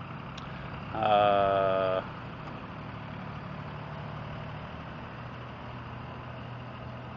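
A vehicle horn sounds once for about a second, starting and stopping abruptly, over the steady low hum of a vehicle engine running.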